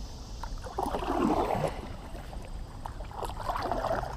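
Kayak paddle strokes in the water: two splashing sweeps about two seconds apart, with a few light knocks.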